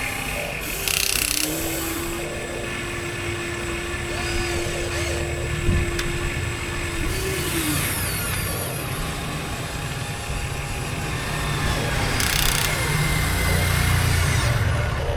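Small electric motors and plastic gearboxes of a 1:14-scale Huina RC construction model whining and grinding. A steady motor whine comes in about a second in and winds down after about six seconds, with brief gritty rushes and a low rumble that grows louder near the end.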